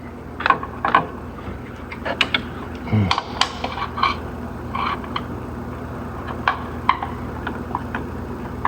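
Scattered sharp clicks and light plastic knocks of a wiring connector being worked loose and unplugged by hand, over a steady low hum.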